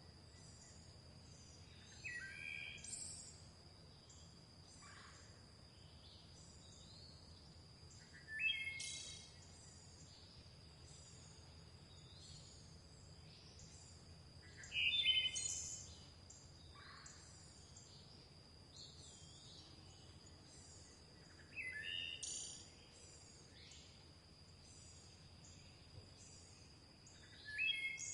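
Forest birdsong: one bird sings a short phrase of several quick notes about every six seconds, five times. Between the phrases there are soft, steadily repeated high chirps, over a constant thin high whine and a faint low hum.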